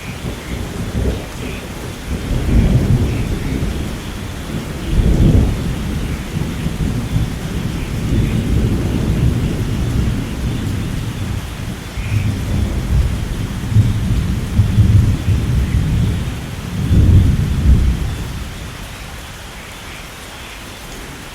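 Steady rain falling through a thunderstorm, with long rolls of thunder rumbling low and swelling several times, loudest about five and seventeen seconds in, then dying away near the end.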